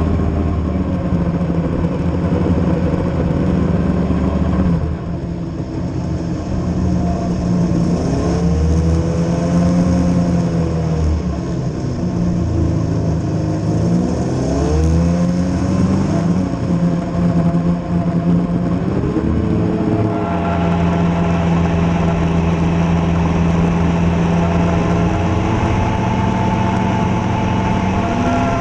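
Vehicle engine running under way, its pitch rising and falling as it revs up and eases off several times, then settling into a steady run for the last several seconds.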